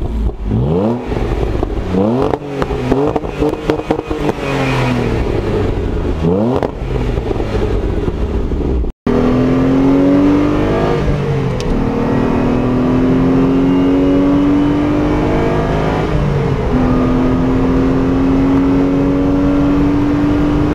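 Car engine revving hard in several quick blips of the throttle. After a short break about nine seconds in, the car accelerates steadily with rising revs and one upshift about sixteen seconds in.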